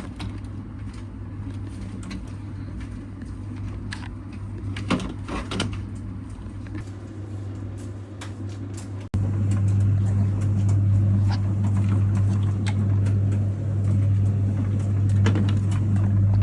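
Steady low hum with scattered light clicks and taps. The hum turns suddenly louder about nine seconds in.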